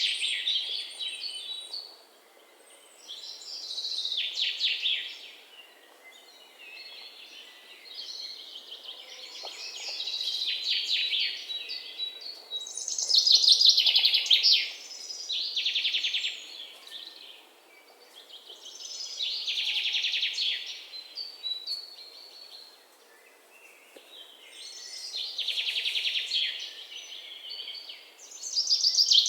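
Songbird singing: phrases of rapid, high trills and chirps, each a second or two long, repeated every few seconds with short pauses between, over a faint steady background hiss.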